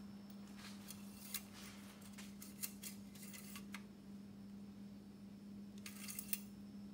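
Faint metallic clicks and light scrapes from the engine oil dipstick being drawn out and handled: one click about a second in, several between two and four seconds, and a short cluster near the end, over a steady low hum.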